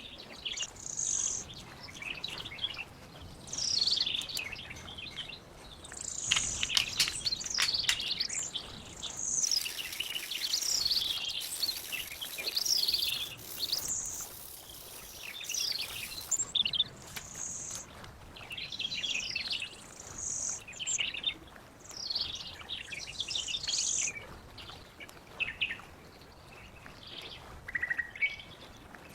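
Birds chirping and singing in many short, high, gliding calls throughout, with a few sharp clicks and a hiss from about nine to fourteen seconds in.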